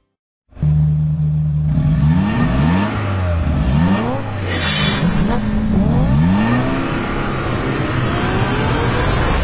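Car engine revving hard, its pitch rising and falling again and again, with a short burst of hiss about four and a half seconds in.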